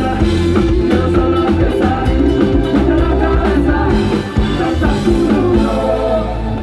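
Live Latin band playing an upbeat song with drum kit and percussion.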